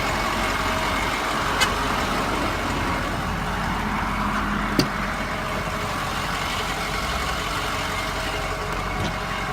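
Ford F-250 Super Duty's 6.0 Power Stroke V8 turbo diesel idling steadily, with two short sharp clicks, one about a second and a half in and one about five seconds in.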